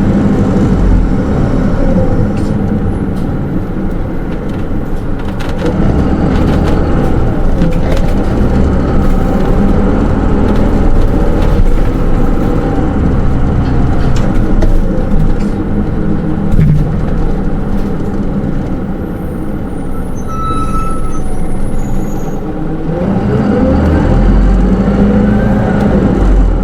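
Inside a Hino Rainbow II SDG-KR290J1 city bus with an automatic transmission while it drives: the diesel engine runs with its pitch rising and falling through the gears, over road noise. The engine eases off around twenty seconds in, when a brief high tone sounds, and pulls up again near the end.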